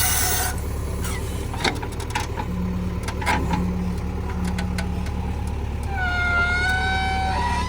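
JCB 3DX backhoe loader's diesel engine running steadily, with a few short knocks. Near the end a wavering high-pitched tone comes in over it.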